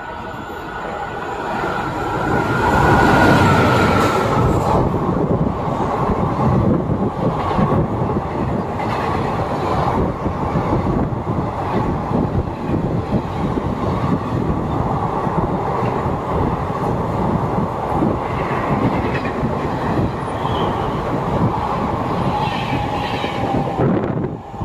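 Indian Railways express train passing at speed: the approach grows louder over the first three seconds, with a tone that drops in pitch as the locomotive goes by. Then the coaches' wheels clatter over the rail joints with a steady rushing roar.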